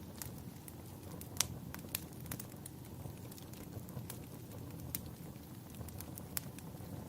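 Wood fire crackling, with a steady low rumble under irregular sharp pops, the loudest about a second and a half in.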